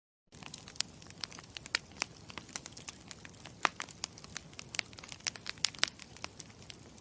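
Campfire crackling: irregular sharp pops and snaps over a soft steady hiss. It starts about a third of a second in, after a moment of dead silence.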